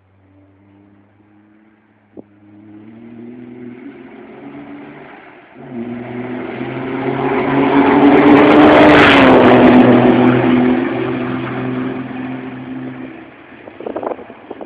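Formula Truck racing truck's diesel engine approaching at speed and passing close by, loudest about two-thirds of the way through, its pitch dropping slightly as it goes past, then fading away.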